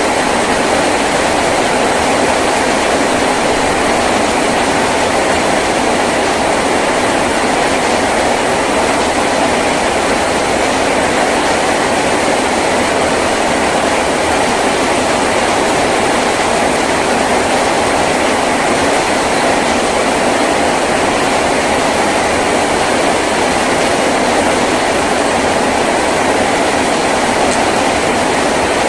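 Heavy rain drumming steadily on a tin roof, an even, unbroken wash of noise.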